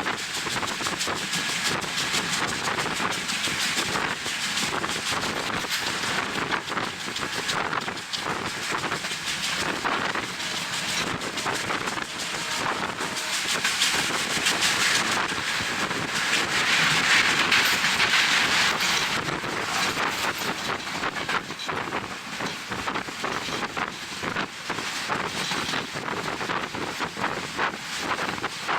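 Wind rushing over the microphone at an open window of a moving passenger train, over the running noise of the train. The rush swells for a few seconds a little past halfway through.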